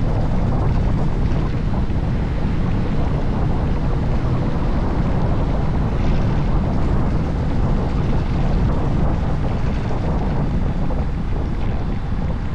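Steady rush of wind over the microphone of a rider under way on a Honda Forza 750 maxi-scooter, with the scooter's engine running beneath it.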